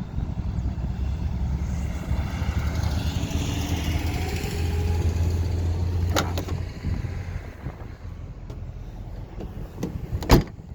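Chevrolet Avalanche pickup's engine idling, a steady low rumble that eases off about six and a half seconds in. A sharp click about six seconds in and a louder sharp knock near the end.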